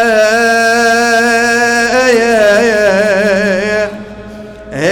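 A man chanting a sung Arabic elegy (rithaʾ) for Imam Hussein, drawing out a long wavering note over a single syllable. Near the end he breaks off briefly, then comes back in with a rising slide.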